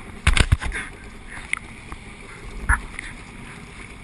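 Jet skis riding over waves: a quick run of heavy thumps and splashes about half a second in, then single thumps twice more over a steady rush of water and wind.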